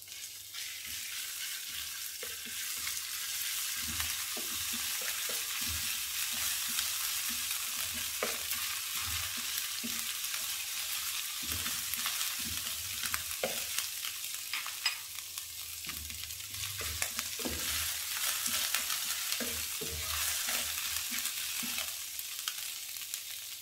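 Ginger-garlic paste, sliced green chillies and cumin seeds sizzling in a little hot oil in a non-stick frying pan, stirred with a wooden spatula that knocks and scrapes against the pan at irregular moments.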